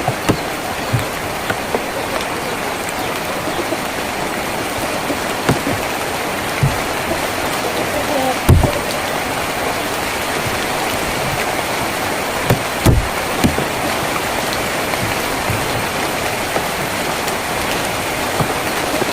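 Steady rain drumming on a tin roof, with heavier drops knocking now and then, the loudest about eight and a half seconds in and again around thirteen seconds.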